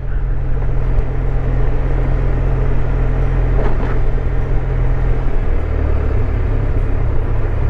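Honda Silver Wing 600 maxi-scooter under way: a steady engine hum under wind and road noise, the engine note dropping lower about five seconds in.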